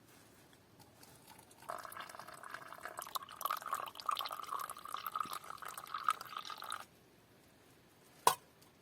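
Liquid being poured into a cup for about five seconds, followed by a single sharp click.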